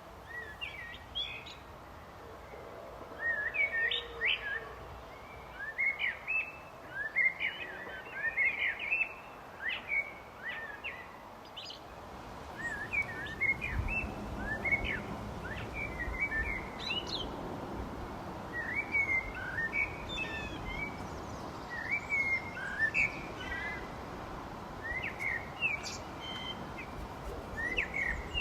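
Birds chirping and singing in quick short phrases, many notes overlapping, with a low background rumble that comes up about twelve seconds in.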